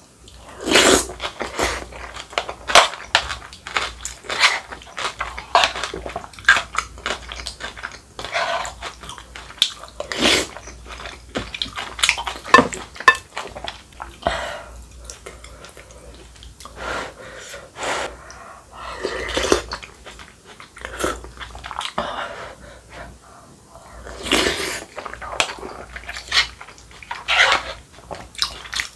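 Close-miked eating of dumplings and rice-cake soup: irregular wet chewing, bites and occasional crunches.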